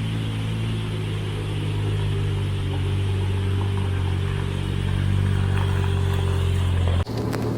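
Suzuki Jimny JB23W's 660 cc three-cylinder turbo engine running steadily as the vehicle drives along. The engine sound cuts off abruptly near the end, and a few sharp clicks follow.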